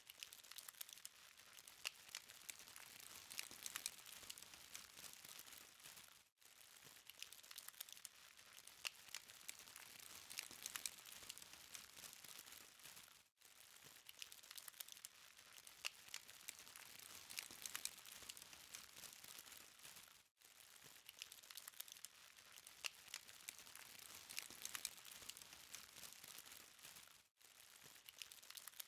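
Charcoal fire crackling softly, with many small sharp pops and ticks over a faint hiss. The sound repeats as a loop about every seven seconds, with a brief dropout at each join.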